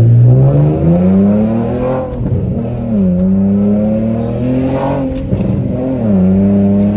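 Infiniti G37's 3.7-litre V6, heard from inside the cabin, pulling hard under acceleration. The engine note climbs steadily for about two seconds, then falls back and climbs again more gently, dropping once more near the end to a steadier pitch.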